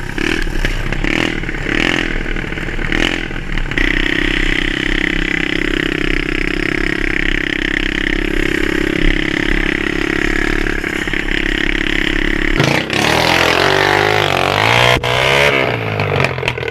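Small pit bike engine running while riding: a steady held note for most of the stretch, then the pitch rising and falling as the rider works the throttle near the end.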